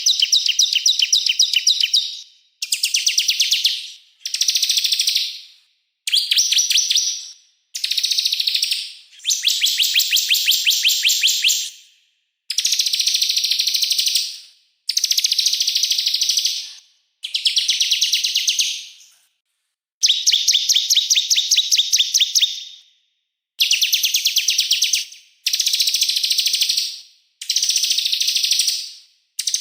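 A small songbird's rapid, high trills, about fourteen bursts of fast repeated notes, each one to three seconds long, with short gaps between: a 'masteran' small-bird song recording of the kind played to train caged songbirds.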